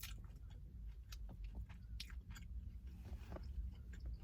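Close-up chewing and mouth sounds of someone eating a McDonald's donut stick: soft, irregular clicks and smacks over a faint low rumble.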